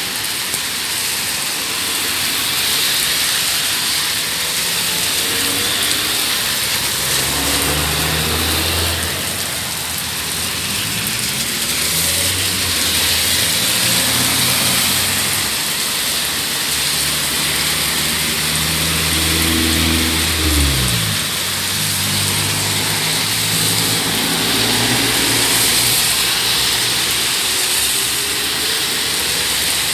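Heavy rain pouring down steadily. A car engine is heard through it from about seven seconds in, its pitch dropping sharply about twenty seconds in, and it fades near the end.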